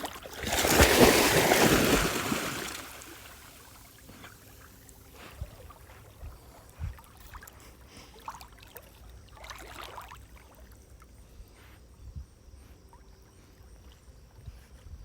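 Water splashing loudly for about two seconds, then faint flowing river water with a few small knocks.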